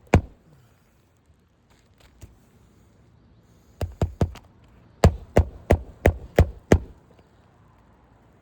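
Hammer driving roofing nails through an asphalt shingle: a strike at the start, a quick group of three about four seconds in, then six strikes at about three a second.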